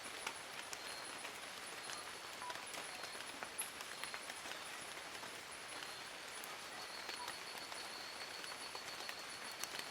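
Rain falling on forest leaves: a steady patter with many individual drops ticking, and a thin, high, steady tone running through it.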